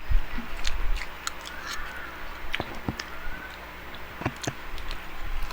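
Close-up eating sounds: chewing and biting food, with scattered sharp clicks and crunches at irregular intervals.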